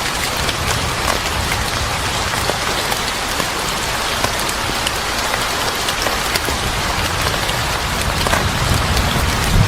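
Steady heavy rain falling, with many small sharp ticks of drops through it. A low thunder rumble begins to build near the end.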